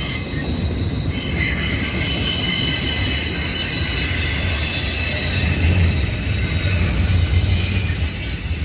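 Freight train of autorack car-carrier cars rolling past with a steady low rumble of wheels on rail. Thin, high wheel squeals are held over it throughout.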